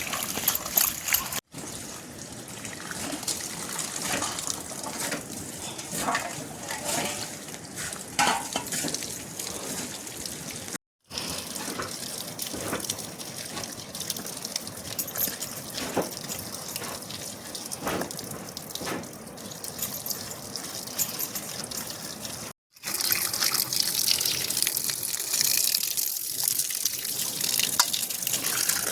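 Water running and splashing steadily, broken three times by brief silent gaps where the footage is cut.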